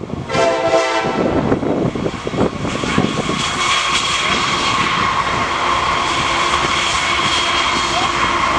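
Diesel freight locomotives on the Norfolk Southern main line running past, a steady rumble with a whine on top that grows louder about three seconds in and then holds.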